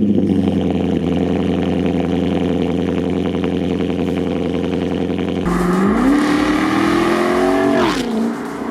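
Audi S5 V8 running on a newly fitted Armytrix valved aftermarket exhaust just after a cold start, holding a steady fast idle. About five seconds in the engine note climbs smoothly for a couple of seconds, then drops back near the end.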